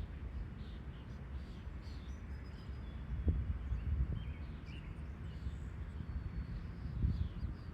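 Faint short bird chirps over a steady low outdoor rumble, with a couple of soft knocks about three seconds in and near the end.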